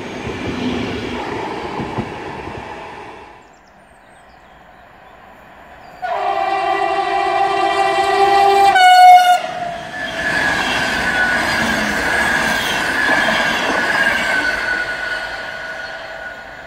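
Passenger carriages rushing past with rail rumble, cutting out after about three seconds. Then a long, loud multi-tone horn blast from a Siemens EU44 Husarz electric locomotive, its pitch dropping just before it ends. The locomotive and its train then pass with wheel rumble and a high, slightly falling whine, fading near the end.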